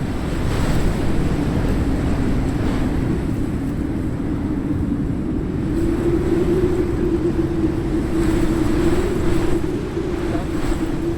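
Tour boat's engine running with a steady hum that rises slightly in pitch about halfway through, over water noise and wind buffeting the microphone.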